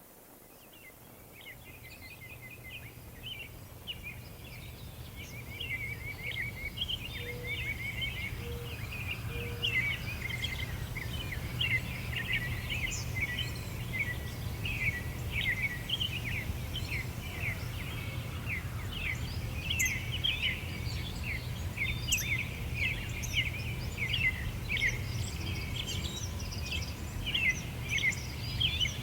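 Many small birds chirping and twittering in a dense, rapid chorus, fading in over the first few seconds, over a steady low background rumble.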